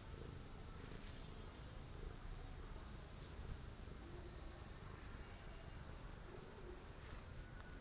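Quiet background with a low steady rumble and a few faint, high chirps of small birds, about two to three seconds in and again near the end.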